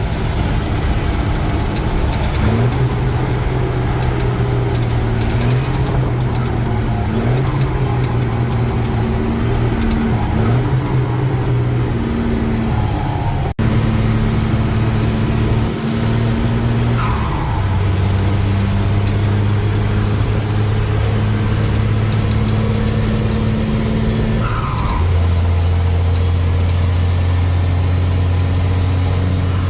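Truck engine running on the road, its pitch stepping up and down with the revs.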